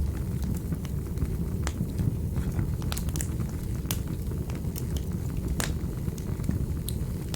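Fire burning in a fireplace: a steady low rush of flame with irregular sharp crackles and pops, about a dozen of them, one louder pop past the middle.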